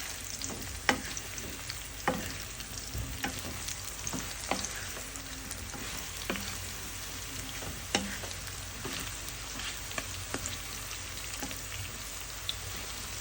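Potatoes frying in oil in a pan, a steady sizzle, with a spatula knocking and scraping against the pan about a dozen times at irregular intervals as they are stirred and turned to brown on all sides.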